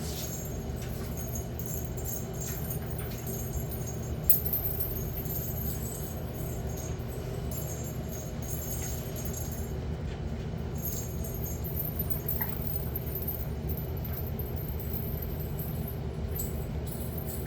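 Puppies playing, with light scattered jingling over a steady low hum, and a brief knock about four seconds in.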